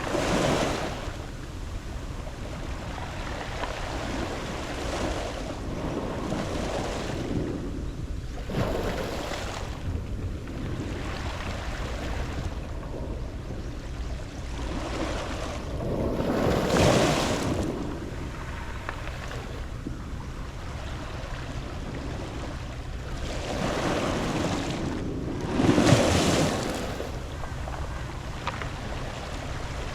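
Sea waves breaking and washing up a round-pebble beach, one surge every several seconds over a steady low rumble; the biggest surges come about halfway through and again near the end.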